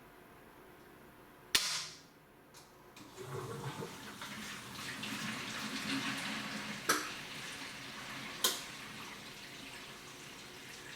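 A sharp click, then water starts running and keeps running steadily, with two more sharp clicks partway through.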